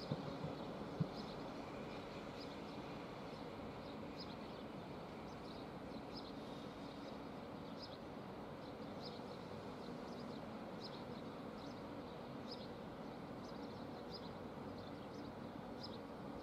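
Distant ÖBB class 4024 Talent electric train rolling slowly through the station tracks: a faint, steady low rumble with a low electric hum, and a few wheel clicks in the first second. Short high chirps repeat about every half second to second over it.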